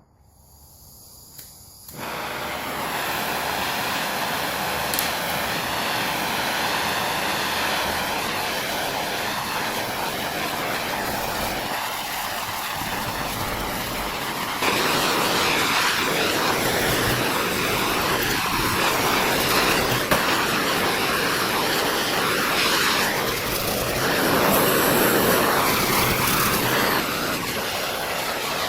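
Steady, loud rushing hiss of a workshop tool at work, stepping louder about halfway through.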